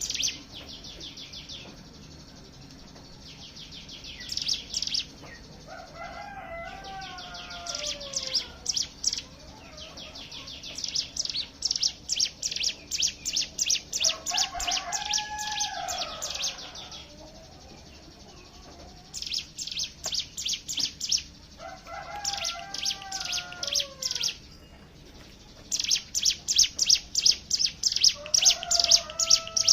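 Ciblek gunung (mountain prinias) singing as a group, in bursts of very rapid, rattling trills, the 'ngebren' song, that recur every few seconds and last up to about five seconds. Four times a lower, longer call rises and then falls between the trills.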